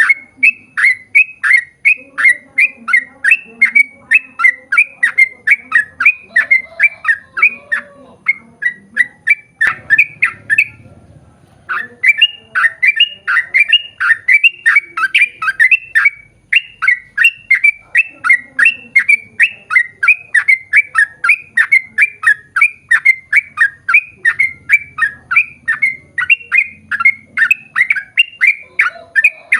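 Yellow-vented bulbul (trucukan) calling in a long rapid series of short, harsh notes, about three a second, with a brief break about ten seconds in.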